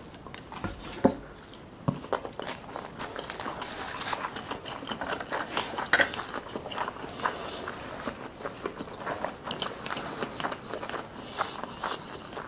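Close-miked chewing of a mouthful of sushi roll: wet mouth sounds with many small clicks and crackles, and a few sharper knocks, the loudest about six seconds in.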